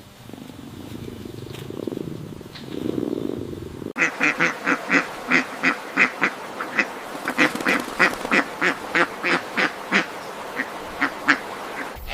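Ducks quacking in a fast run of short, repeated quacks, about three to four a second, starting suddenly about four seconds in. Before that there is a softer, lower animal sound.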